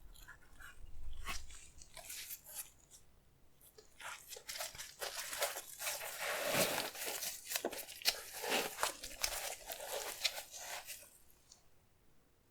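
Paper or plastic packaging being crumpled and torn while a sneaker box is unpacked. A few scattered crackles come first, then a dense run of crinkling and crunching for about seven seconds, which stops near the end.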